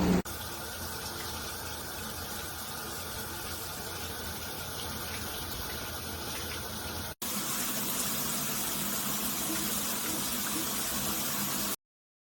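Water streaming steadily from a rainfall shower head as an even rush. It breaks off for an instant about seven seconds in, comes back slightly louder, and stops abruptly near the end.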